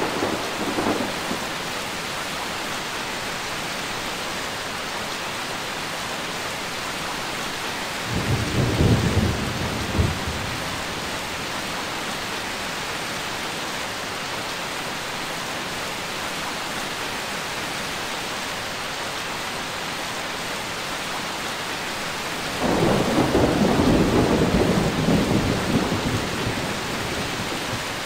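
Steady heavy rain with thunder rumbling: a short rumble about eight seconds in and a longer, louder one that swells about three-quarters of the way through and fades over several seconds.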